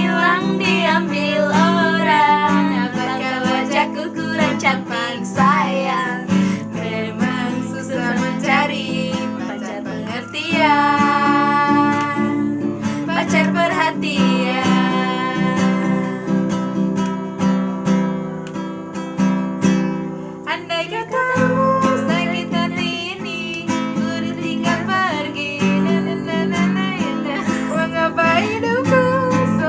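A voice singing a song, with wavering pitch, over a strummed acoustic guitar; a long held note comes about ten seconds in.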